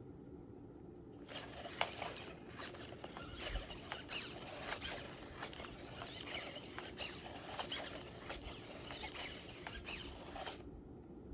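A dog scratching and scrabbling rapidly with its claws, a dense irregular run of scratches. It starts about a second in and stops abruptly about a second before the end.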